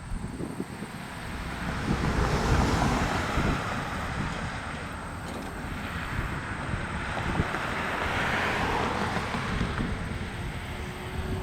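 Wind buffeting the microphone over a low rumble. In the last few seconds a faint steady hum slowly rises in pitch.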